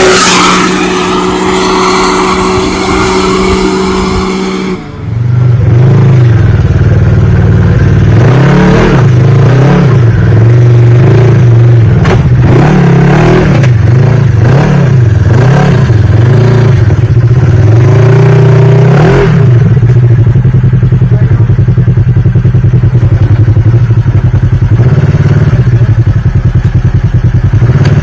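Off-road vehicle engine, a dirt bike or UTV, held at high revs for about five seconds. After a sudden break, an engine runs at lower pitch and is revved up and down over and over, with some clatter.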